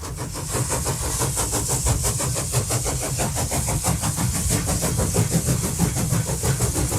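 A machine running steadily with a fast, even beat and a hiss over it, fading in at the start.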